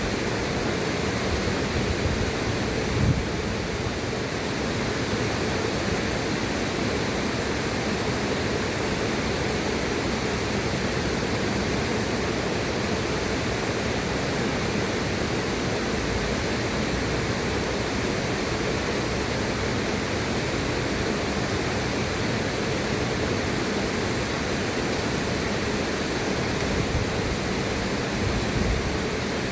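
River water rushing steadily, an even hiss-like noise with no pauses, and a brief low thump about three seconds in.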